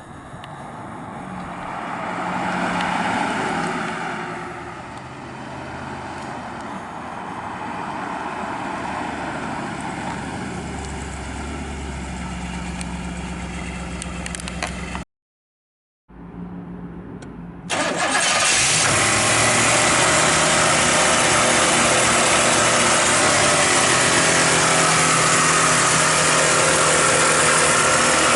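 The 5.0-litre V8 of a 1991 Pontiac Firebird Formula running at a steady idle. The sound cuts out for about a second just past halfway, then comes back much louder with a dense steady rush that holds to the end.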